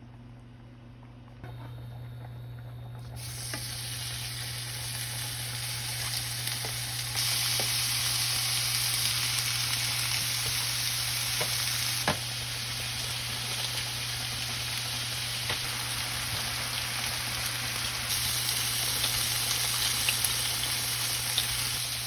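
Pork belly (samgyeopsal) sizzling as it fries in a hot pan, a dense hiss with occasional pops of spitting fat. The sizzle starts about three seconds in and grows louder a few seconds later, over a steady low hum, then fades out at the end.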